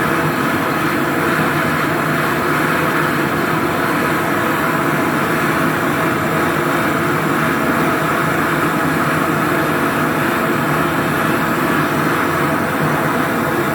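A machine running steadily, with a constant hum under a broad whir that does not change.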